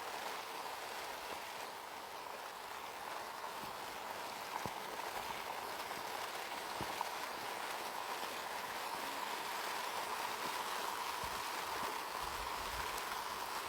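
Steady rain falling, an even hiss with scattered drop ticks. A low rumble comes in over the last second or two.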